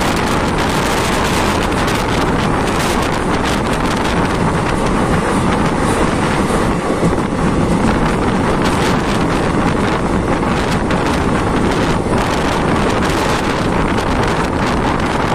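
Wind buffeting the microphone held out of a moving Indian Railways express passenger train, over the steady rumble and clatter of the coaches running on the track.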